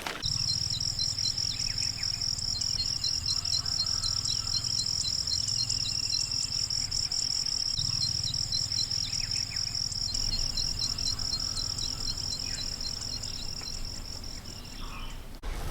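Insects, such as crickets or cicadas, keep up a steady high-pitched drone with rows of short repeated chirps, over a low outdoor rumble. It cuts off suddenly near the end.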